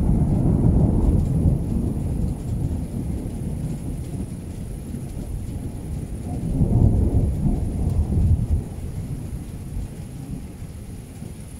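Thunder rolling and rumbling deep and loud. It swells again about two-thirds of the way through, then dies away.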